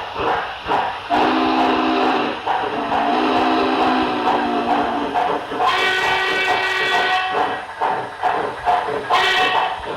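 HO scale model steam locomotive's LokSound 5 sound decoder playing a steam whistle through its speaker: three long blasts, the third higher in pitch, then a short blast near the end, over steady rhythmic exhaust chuffing.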